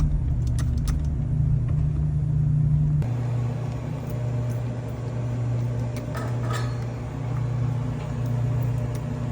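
Steady low machinery hum like a running engine, which steps abruptly to a slightly different pitch about three seconds in, with a few faint clicks.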